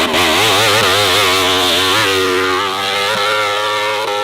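Dirt bike engine revving hard on a steep climb. Its pitch wobbles up and down quickly, about three times a second at first, then holds steadier at high revs.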